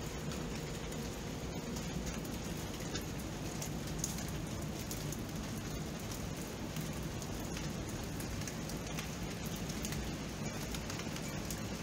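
Steady rain falling: an even hiss with scattered light drop ticks, and a faint steady hum underneath.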